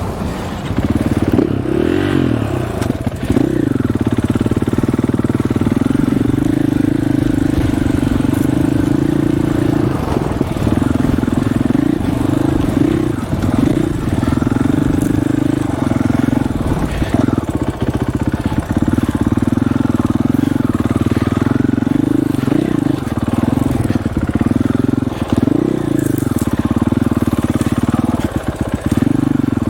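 Dirt bike engine running under throttle while being ridden, its pitch dipping and climbing again a few times with throttle and gear changes.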